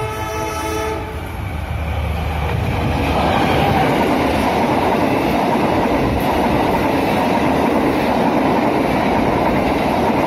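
Diesel locomotive's horn sounding for about a second at the start, then the train passing close by: a loud, steady rush of wheels and passenger coaches on the rails that builds over the first few seconds and holds.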